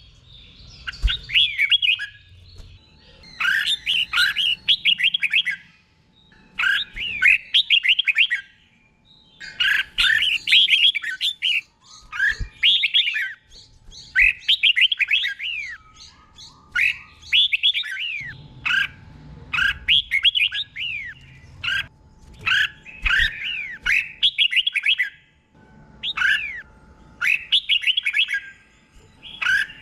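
Red-whiskered bulbul singing its repeated 'doubled' song, short warbled whistling phrases coming one after another about every two seconds.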